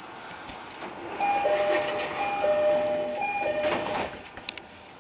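209 series electric train running on the rails, heard from the driver's cab. A little over a second in, steady tones at two pitches come in, overlapping and breaking off several times, and they stop about four seconds in.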